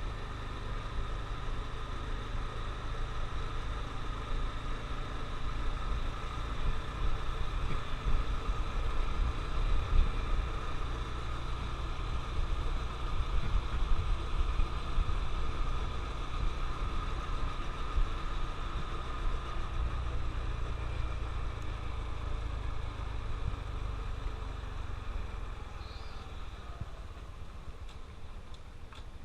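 Honda CT125 Trail 125's air-cooled single-cylinder engine running steadily while riding, with wind rumbling on the helmet-camera microphone. Engine and wind both ease off near the end.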